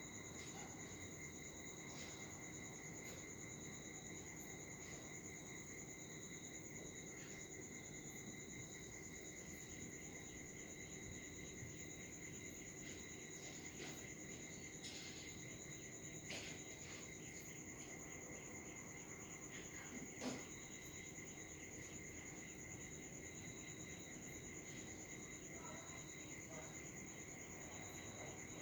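Faint, steady high-pitched trilling of crickets, unbroken throughout, with a few brief sharp sounds, the clearest about two-thirds of the way in.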